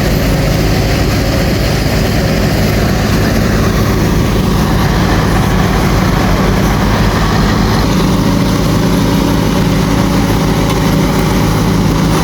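Heavy vehicle engine running steadily and loudly, with a constant low drone and no change in speed.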